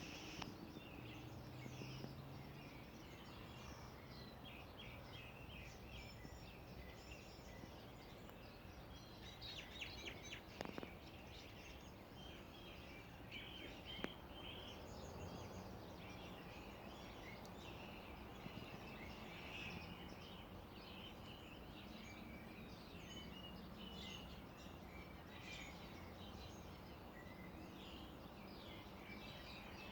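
Several small birds chirping and calling, quiet and continuous, with many short, high chirps overlapping. A single sharp click about fourteen seconds in.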